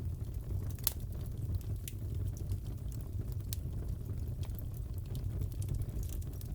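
Wood fire in a fireplace crackling: a steady low rumble of burning with scattered sharp pops and crackles, one louder pop about a second in.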